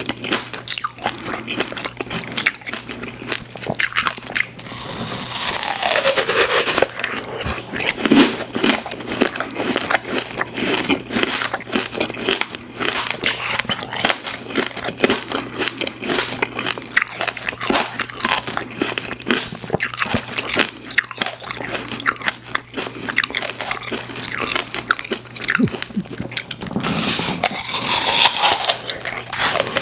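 Close-miked eating of sweets: biting and chewing with many small wet mouth clicks. There are two brief louder, noisier stretches, about five seconds in and near the end.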